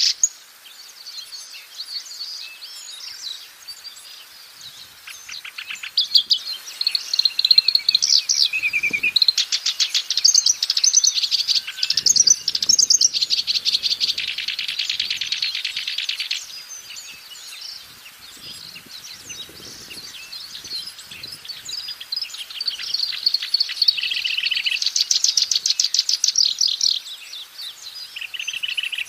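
Black-browed reed warbler singing: long, high phrases of rapid repeated notes with quieter, varied passages between. The song is loudest from about six to sixteen seconds in and again a few seconds before the end.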